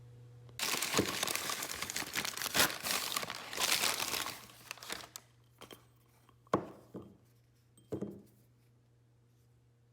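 Wrapping crinkling and rustling as it is handled for about four seconds, then two light knocks.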